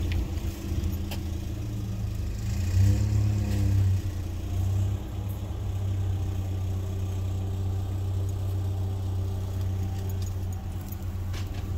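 Steady low hum of a vehicle engine idling, swelling briefly about three seconds in. A few faint metallic clicks, like a dog's collar tags jingling, come about a second in and near the end.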